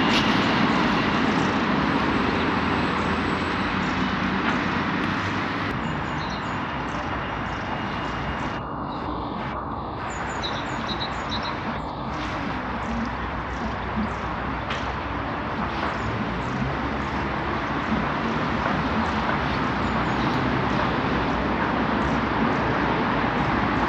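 Steady outdoor vehicle noise, a constant rumble and hiss, easing a little in the middle, with a few short bird chirps about ten to twelve seconds in.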